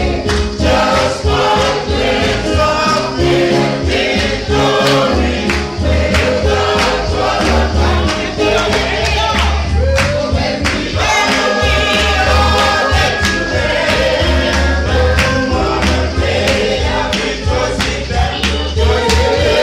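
A choir singing with a band behind it, over a steady beat and a strong bass line.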